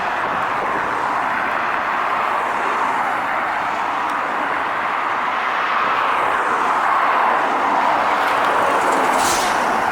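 Heavy truck on the road going by, a steady rush of tyre and road noise that swells and eases, with a short high hiss near the end.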